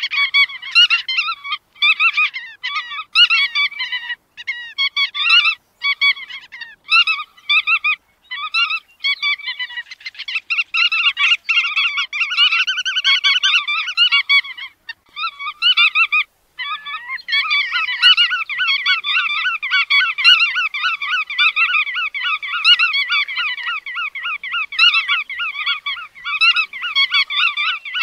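A flock of bar-tailed godwits calling: many rapid, overlapping short nasal calls in a steady chatter, broken by a few short pauses in the first half.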